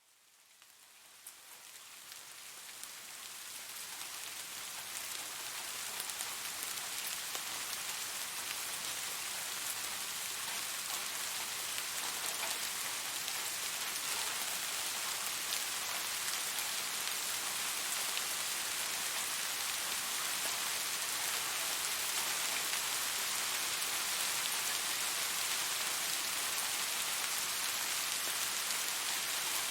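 Steady rainfall: an even hiss dotted with scattered individual drop ticks, fading in from silence over the first few seconds and then holding steady.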